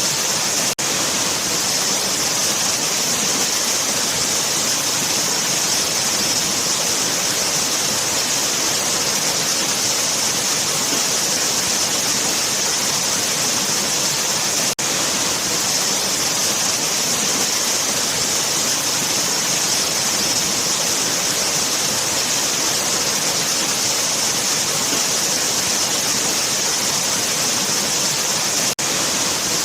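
Waterfall: a steady, dense rush of falling water with a bright hiss on top, broken by three very brief dropouts, about a second in, midway and near the end.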